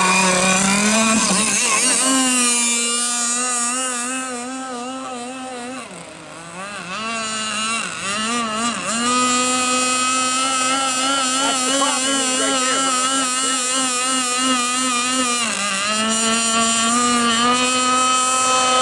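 Gas engine of a 58-inch RC catamaran, a stock RCMK, running hard on the water with a wavering pitch. Its note sags and drops off about six seconds in, climbs back up after about nine seconds and holds, with another short dip near sixteen seconds.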